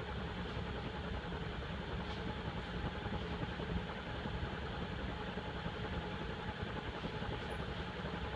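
56-inch TAT industrial ceiling fan with heavy steel blades running on high, a steady whir with a faint motor hum as it is still coming up to full speed. The blades are unbalanced, which the owner thinks slows the spin-up.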